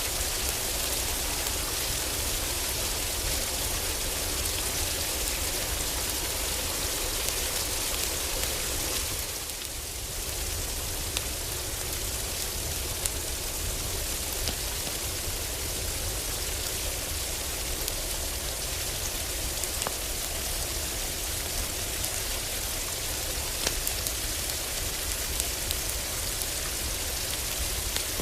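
Heavy rain falling steadily on a roof, a dense even hiss with scattered sharp ticks. It dips briefly in loudness about nine seconds in.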